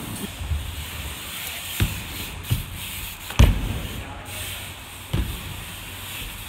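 BMX bike being ridden: tyres rolling on the ground under a steady hiss, with a few knocks and thuds from the bike and rider, the loudest about three and a half seconds in.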